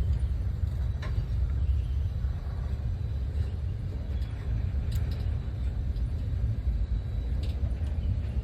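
Low, steady rumble of a train passing or running, with a few faint clicks.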